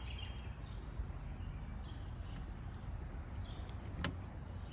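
Steady low outdoor background rumble with faint higher sounds over it and a single sharp click about four seconds in.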